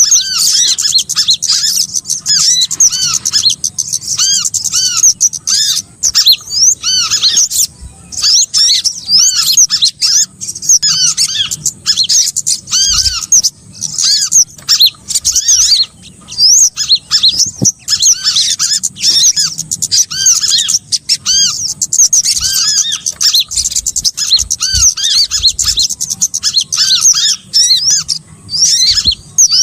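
Bird-trapping lure recording of small songbirds: a dense, continuous chorus of many overlapping short, high, arching chirps.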